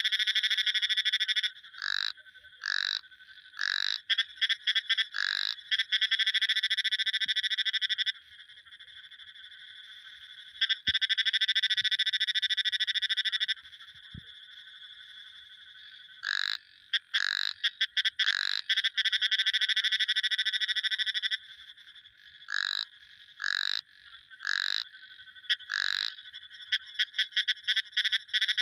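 Frogs calling: long, rapid, high-pitched trills lasting a few seconds each, alternating with groups of three or four short downward-sliding notes, with brief quieter gaps between the bouts.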